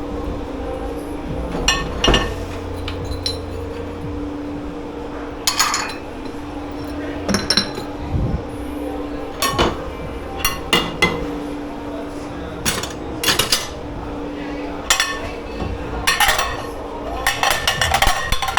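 Dishes and cutlery clattering and clinking as they are handled in a commercial kitchen dish pit, the clinks coming in scattered clusters and growing denser near the end, over a steady machine hum.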